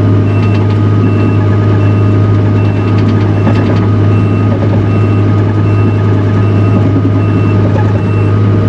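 Takeuchi TL240 skid steer's diesel engine running steadily under throttle, with its backup alarm beeping evenly as the machine reverses.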